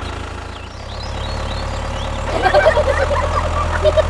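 Small DIY tractor's motor running steadily with a low hum, dipping briefly and picking up again under load about a second in; from about halfway, short chirpy squeaks or sounds ride over it.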